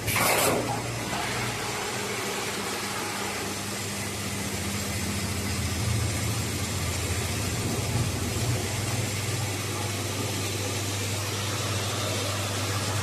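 Automatic tarpaulin welding machine line running, a steady low electrical hum under an even hiss. A short, loud burst of hiss comes right at the start.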